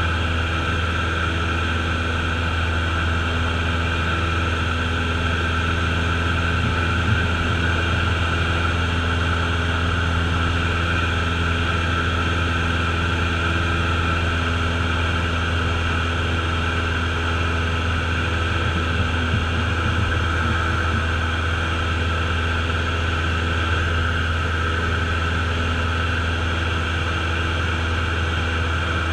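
Cessna light aircraft's piston engine and propeller running at a steady, unchanging drone, heard from inside the cabin.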